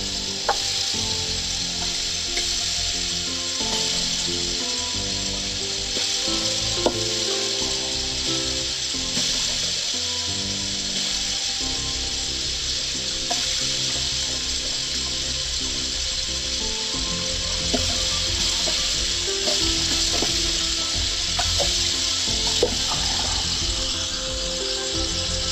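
Warm water running steadily from a tap into a sink, a constant hiss, over background music, with a few faint clicks.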